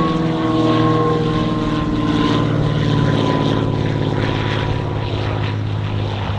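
Piper PA-46 single-engine propeller aircraft running past, a steady engine and propeller drone that sinks slowly in pitch and fades a little as it goes by.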